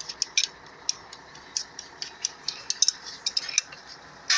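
Irregular sharp metallic clicks and clinks of a cylinder-liner (sleeve) puller being tightened on an engine block.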